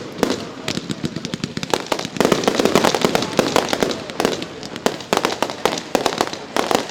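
Fireworks display going off: a fast, dense run of bangs and crackling reports, busiest about two to four seconds in.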